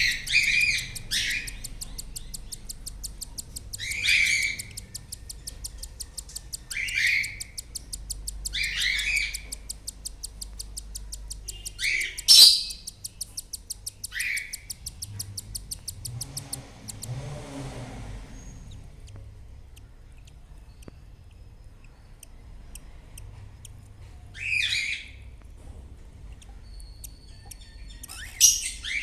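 Cockatiels in a nestbox: short chirping calls every couple of seconds, over a fast, even ticking chatter through the first half, typical of chicks begging while the parents feed them. A soft rustle comes partway through, and the calls thin out later on.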